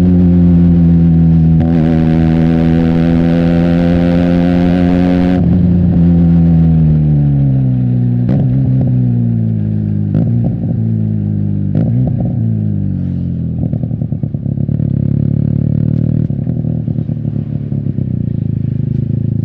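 Benelli TNT 300's parallel-twin engine through an Austin Racing aftermarket exhaust, holding steady revs, then falling in pitch in several steps with brief clicks as the bike slows and shifts down. From about two-thirds in it settles to a lower, pulsing idle.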